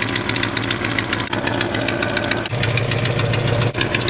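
Old Volvo 142's engine running under way, with a rapid rattling knock over it; the engine hum swells about two and a half seconds in. The owner takes the noise for the loose exhaust pipe bouncing around underneath the back of the car.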